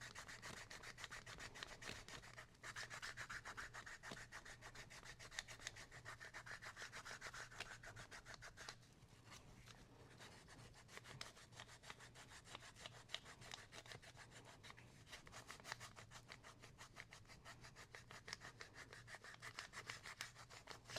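Faint hand sanding of vegetable-tanned leather: a run of quick, even back-and-forth rubbing strokes, finish-sanding the cut edges of a belt piece.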